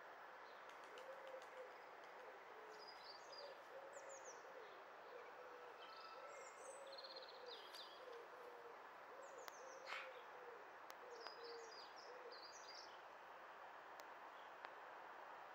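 Faint outdoor birdsong: a bird repeats low cooing or hooting phrases about every two seconds, while small birds chirp in high, short notes.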